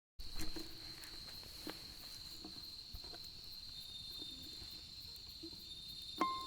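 Wood campfire crackling with a few sharp pops over a steady high-pitched insect drone; a ukulele starts plucking ringing notes near the end.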